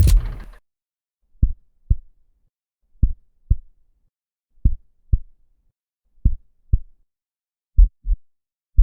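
Heartbeat sound effect: short, low lub-dub double thumps about every one and a half seconds, coming a little faster near the end. A noisy sound from the previous effect cuts off abruptly about half a second in.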